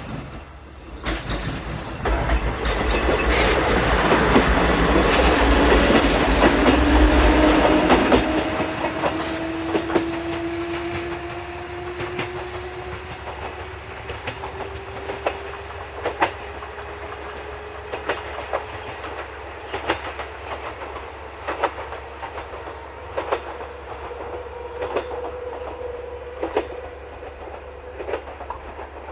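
Yoro Railway electric train running on the line. A loud rush of noise comes in the first several seconds, then a motor whine climbs slowly in pitch as the train picks up speed. Wheels click over the rail joints at a steady beat that gets gradually quicker.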